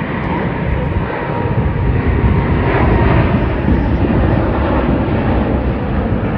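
Jet aircraft flying overhead: a loud, steady roar of engine noise that swells slightly in the middle.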